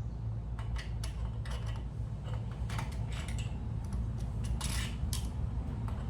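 Irregular light clicks and clinks of small metal carburetor parts and gaskets being handled and fitted, over a steady low hum.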